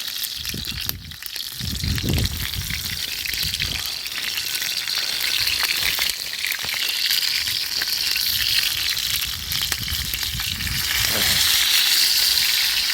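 Chicken cartilage sizzling and spitting fat as it grills over a campfire, a steady crackling hiss that grows a little louder near the end.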